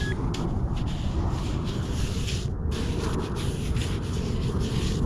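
Scraping and rubbing in beach sand, irregular strokes over a steady low rumble.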